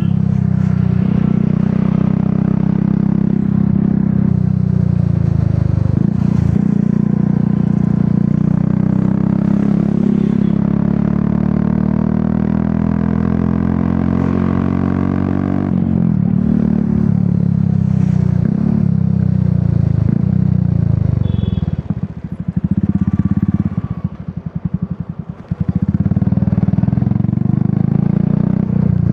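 Royal Enfield Classic 350's single-cylinder engine running through an aftermarket Dolphin exhaust while riding. Its pitch climbs steadily through the middle and drops, then a little over halfway through the revs fall away into slow, separate firing beats on a closed throttle before it picks up and runs steadily again.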